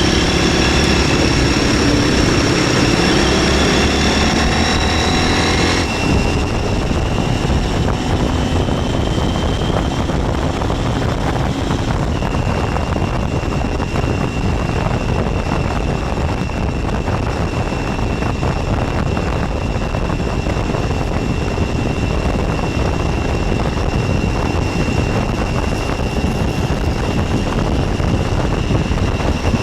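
MZ 125 SX scrambler's single-cylinder engine running under way, with wind rush. For the first six seconds the engine is pulling with its pitch shifting; about six seconds in the sound drops off abruptly as the throttle eases, and it runs on as a steady drone with a thin high whine.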